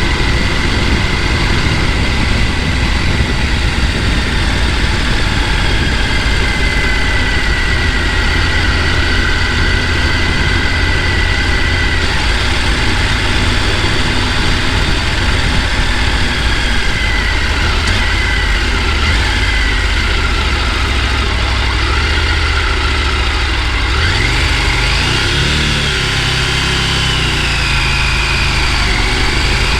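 A motor vehicle running, heard as a steady loud rumble with a thin high whine that drifts in pitch and rises then falls near the end.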